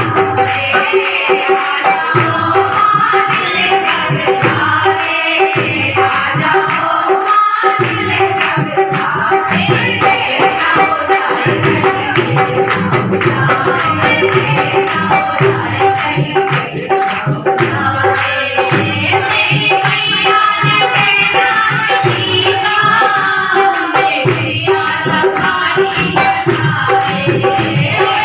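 Devotional singing in praise of the Mother Goddess, with jingling tambourine-like percussion keeping a steady beat over steady held drone tones.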